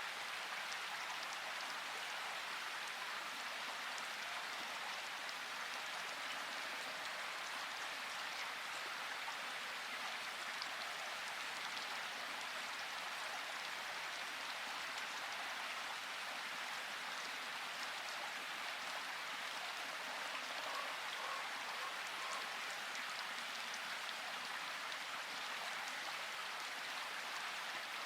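Steady rain falling, an even hiss dotted with fine ticks of individual drops.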